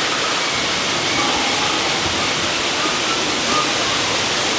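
Steady rush of falling water, an even hiss, from the waterfall in the ride's rainforest scene.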